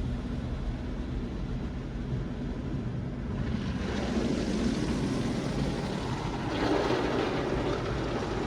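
Tunnel car wash machinery heard from inside the car: a steady low rumble, then a rushing noise of water jets or air against the car that builds from about three and a half seconds in.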